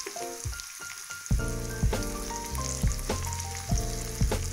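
Bitter gourd pieces sizzling as they fry in hot oil in a pan, stirred and turned with a wooden spatula. Background music with a steady beat comes in about a second in.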